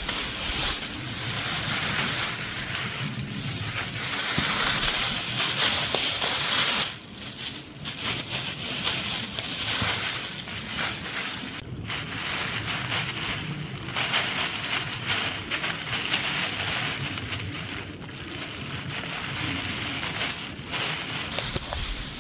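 Thin plastic sheeting crinkling and rustling as it is handled and pulled over a stick frame. The noise goes on without a break, growing louder and softer as the sheet moves.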